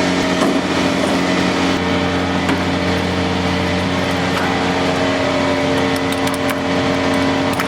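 Vacuum truck's engine-driven vacuum pump running steadily while loading oily wastewater into the tank: a constant hum of several held tones over a rushing hiss.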